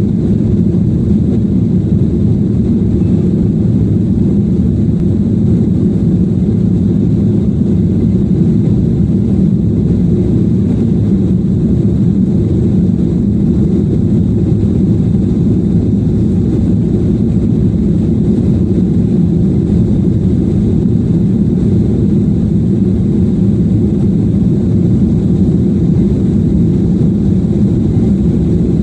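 Steady low rumble of a SpiceJet airliner's engines and airflow, holding an even level with no rise or fall.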